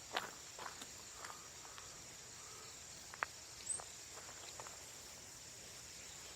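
A steady, high-pitched chorus of insects, with occasional footsteps crunching on the ground and a sharp click a little past the middle.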